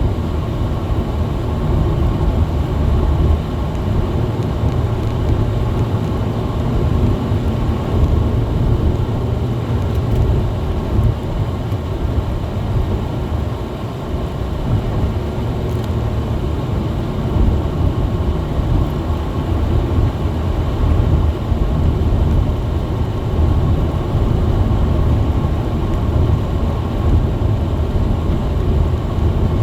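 Car engine and tyre noise heard inside the cabin: a steady low rumble as the car climbs a steep, snow-covered hill on a light throttle.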